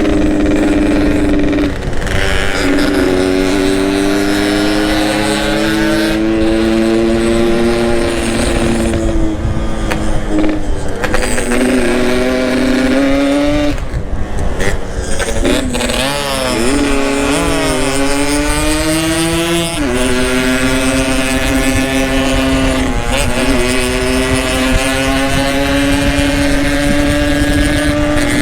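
Yamaha RX-King two-stroke single-cylinder motorcycle engine running under way, with an aftermarket Boban exhaust. The engine note holds steady for stretches and changes pitch several times, dropping and rising as the throttle and gears change around the middle.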